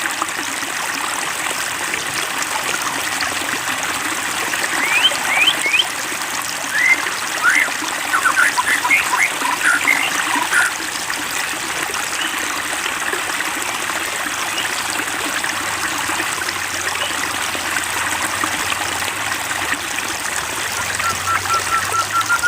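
Water trickling and splashing steadily, a gentle continuous babble. Bursts of short, high chirps sound over it between about a fifth and halfway through, and again at the very end.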